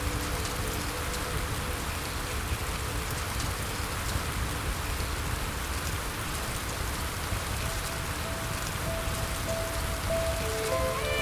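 Steady rain falling, an even hiss over a low rumble, with soft sustained music notes rising in over the second half.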